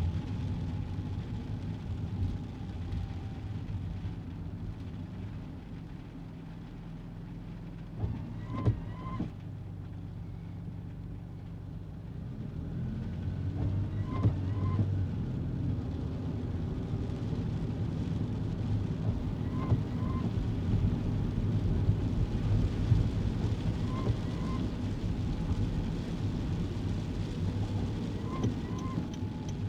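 Kei car driving on a rainy day, its small engine and the road noise heard inside the cabin. The hum eases off for several seconds and then picks up again as the car speeds up. A short double squeak comes every four to six seconds.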